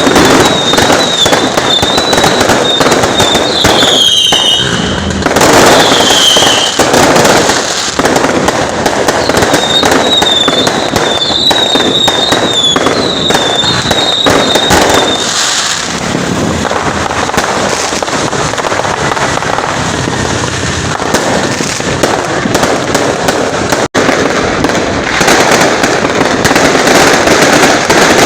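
Fireworks going off continuously: loud, dense crackling and popping throughout, with a warbling high whistle at the start and again from about ten to fifteen seconds in.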